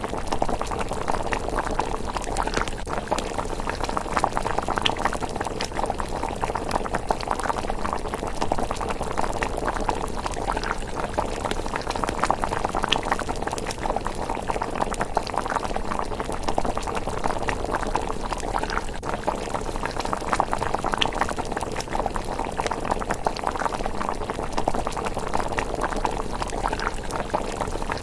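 Pot of thick miso rice porridge simmering, a steady dense bubbling with gentle pops, and occasional faint sharp ticks above it.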